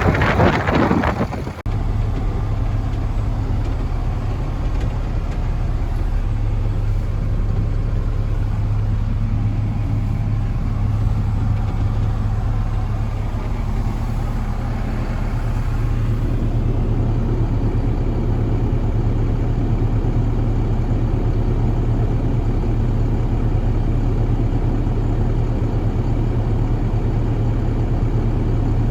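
Kalmar truck's engine idling steadily with a low, even hum. A loud rush of noise over the first second and a half cuts off suddenly.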